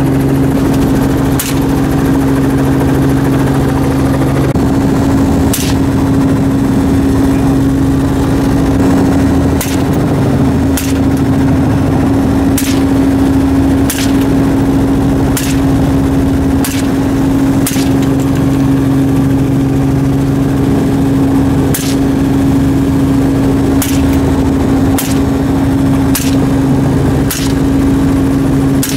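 Helicopter engine and rotor running steadily, with about fourteen single gunshots fired one to four seconds apart.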